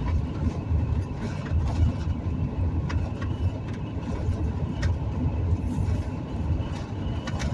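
Steady low rumble of a vehicle driving at road speed, engine and tyre noise heard from inside the cab.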